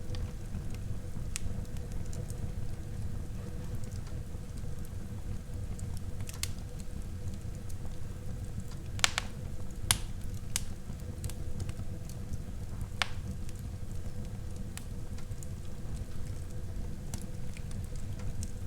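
Wood fire burning in a fireplace: a steady low rumble of flames with scattered crackles and a few sharper pops. The loudest two pops come about halfway through, a second apart.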